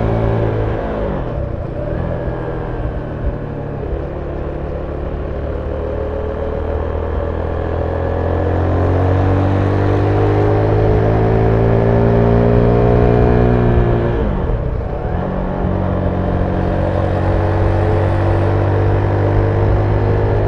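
Zontes 310V's single-cylinder engine with its stock exhaust, running under way. It dips briefly about a second in, then rises steadily in pitch for about ten seconds, falls sharply near fourteen seconds and holds a steady note to the end.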